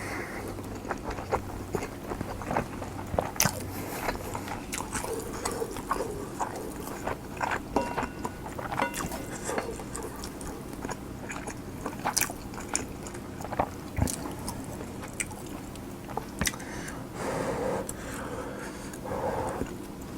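Close-miked eating of cheese-and-egg kimchi fried rice: wet chewing and biting, with many short sharp clicks and smacks throughout.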